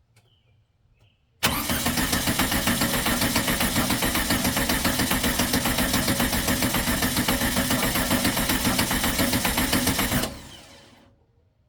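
A fresh VW engine is cranked on its starter for about nine seconds without catching. It turns over with a steady, even pulsing, starting suddenly and stopping abruptly. The owner is unsure whether fuel is reaching it yet.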